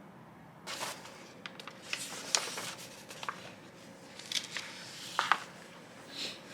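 Small objects being handled up close: rustling and crinkling with light clicks and taps, starting about a second in and going on in short irregular bursts.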